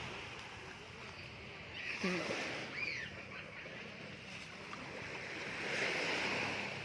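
Sea surf washing onto the beach, a steady rush that swells about two seconds in and again near the end. A couple of short, faint high calls are heard around two and three seconds in.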